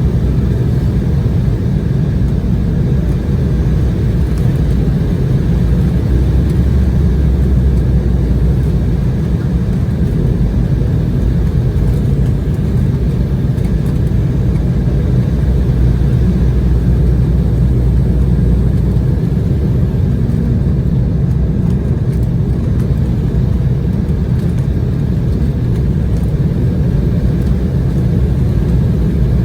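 Steady low rumble inside the cabin of an Embraer E190 airliner during its landing, with its GE CF34 turbofan engines and rushing air blending into one continuous noise.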